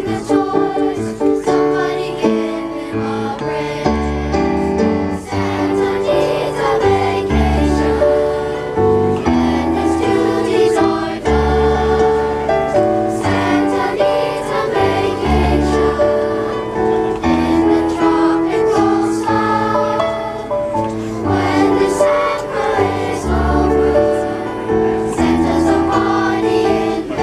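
A choir singing with instrumental accompaniment, held notes over a bass line that changes every second or two.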